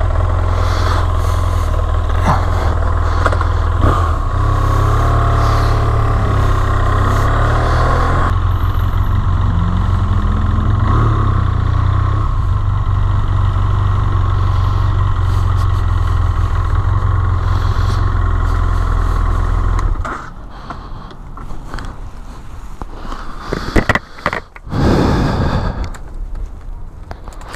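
Motorcycle engine running steadily, then shut off about twenty seconds in; after that, quieter scattered handling sounds with a couple of louder bumps near the end.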